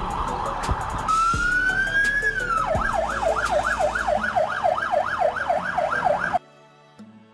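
Police car siren: a slow rising wail that falls away, then a fast yelp sweeping up and down about three times a second, which cuts off suddenly near the end. Faint music follows.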